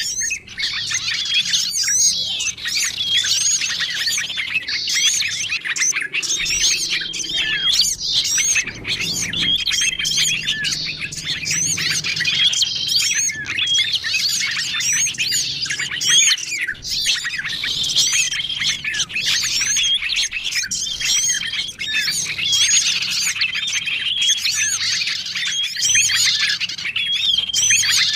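A bird-lure recording of many small songbirds chirping and calling at once, a dense overlapping chorus of quick twittering notes, with a short even whistle repeating every few seconds; the mix is made to draw in small wild birds such as prinias and bulbuls.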